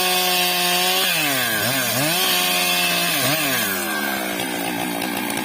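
Stihl MS 661 two-stroke chainsaw running at high revs. Its pitch dips sharply twice and climbs back as the throttle is eased and reopened. Near the end the engine note thins and steadies.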